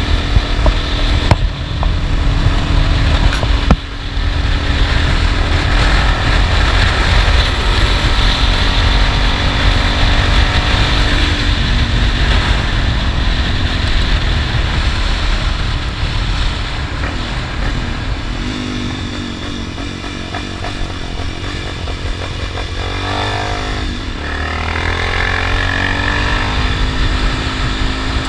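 Honda XRE 300's single-cylinder four-stroke engine running on the move, with heavy wind rumble on the microphone. The engine pitch rises and falls with throttle and gear changes, most clearly past the middle and again near the end.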